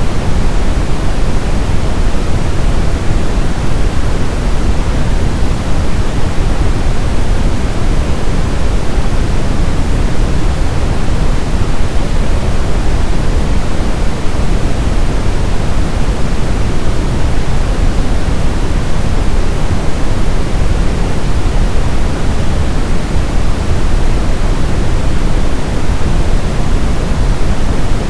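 Brown noise: a steady, deep hiss with most of its weight in the low end, like a distant rumble, unchanging throughout.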